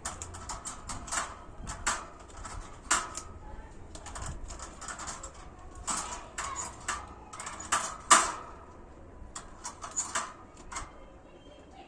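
Small pet birds clambering on and pecking at a wire cage: irregular sharp clicks, taps and rattles, with one louder knock about eight seconds in.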